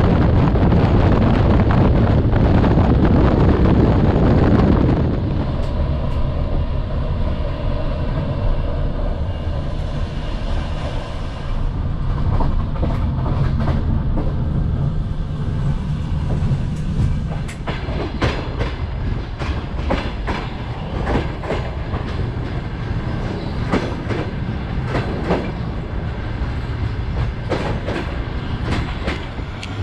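Passenger sleeper train carriage running at about 106 km/h: a steady low rumble, with a rushing wind noise for the first five seconds or so. From about halfway on come many sharp clicks, typical of wheels running over rail joints.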